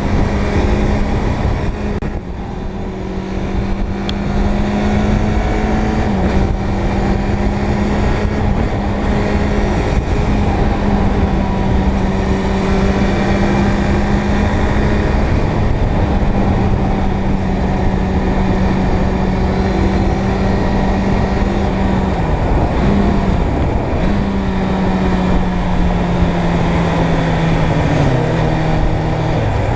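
Motorcycle engine running at a steady cruise under a heavy rush of wind noise. The engine note holds steady, shifts a few times with the throttle, and drops near the end.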